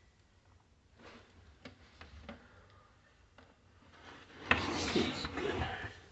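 Unpacking and handling noise: a few faint taps and clicks, then a louder burst of rustling and handling about four and a half seconds in.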